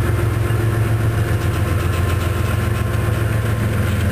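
Norfolk Southern double-stack intermodal freight train rolling past, its well cars making a steady low rumble.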